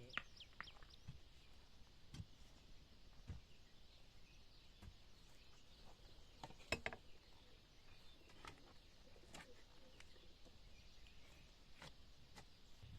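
Faint outdoor ambience with a steady high haze and scattered short clicks or snaps every second or two.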